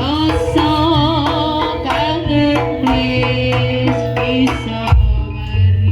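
Javanese jaranan music: a held melody line that wavers in pitch, over drumming and a steady low bass.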